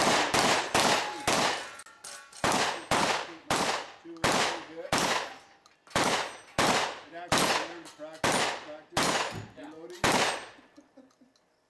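Shotgun fired in a rapid string of about twenty loud shots, roughly two a second with a few brief pauses, stopping about ten seconds in.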